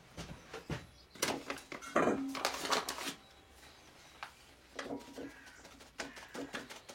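Handling noises: scattered knocks and clicks, with a rustling stretch about a second in and a longer one around two to three seconds in.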